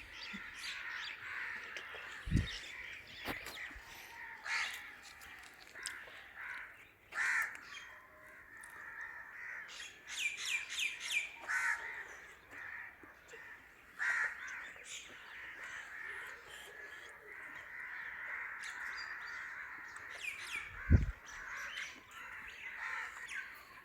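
Crows cawing repeatedly over a steady background of bird chatter, with two dull low thumps, one about two seconds in and one near the end.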